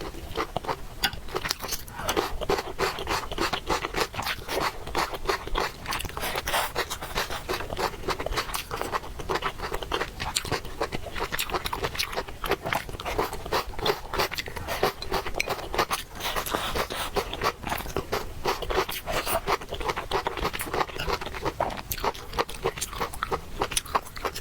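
A person eating noodles close to the microphone: continuous wet chewing and mouth clicks, many small smacks a second.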